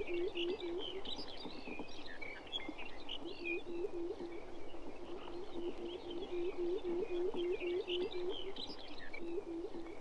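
Male pectoral sandpiper giving its low, hollow hooting display song, a rapid series of hoots about four or five a second. It breaks off after about a second, resumes about three seconds in, and pauses again near the end. Higher, scattered chirping runs above it.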